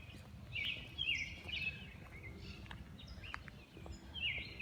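A small songbird calling in short groups of high chirps that slide down in pitch, a few in quick succession about a second in and again near the end, over a steady low rumble.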